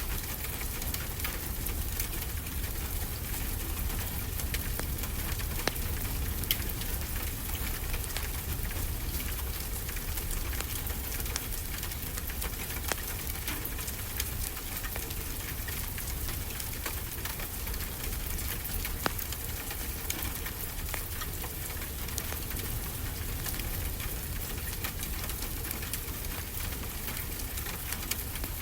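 Fireplace crackling with frequent small pops and a few louder snaps, over a steady wash of ocean surf with a low rumble.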